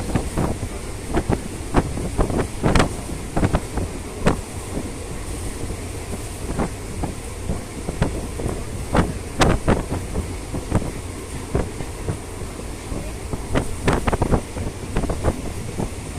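Passenger train running along the track: a steady low rumble with many irregular knocks and clanks from the wheels and carriage, and wind on the microphone.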